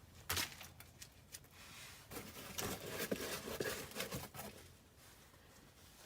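Handling noises from hands-on work: a sharp knock just after the start, scattered clicks, then about two seconds of scraping and rustling in the middle.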